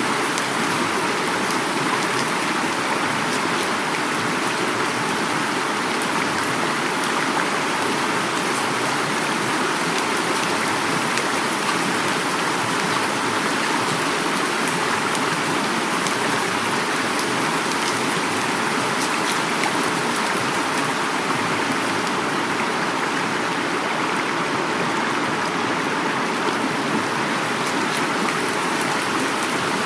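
Heavy rain falling together with a river flowing, a steady even rush with faint drop ticks and no change in level.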